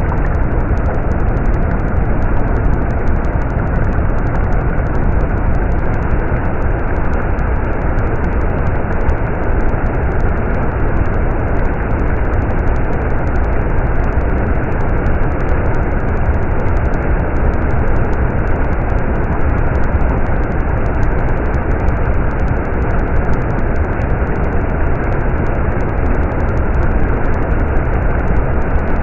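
Stream water flowing steadily, a constant rushing noise that does not let up.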